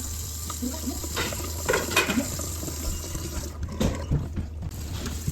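Water running from a tap into a kitchen sink, with a few light knocks.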